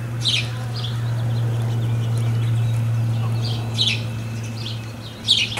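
Birds chirping in short high calls, loudest near the start, just before four seconds and near the end, over a steady low hum.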